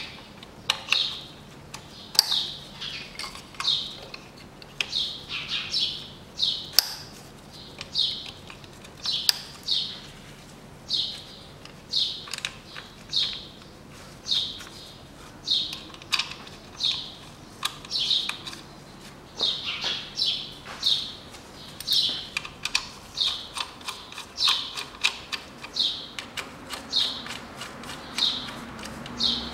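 A small bird chirping over and over, a short falling chirp about once a second, with scattered sharp clicks and taps from hands and tools working on the engine's ignition coils and connectors.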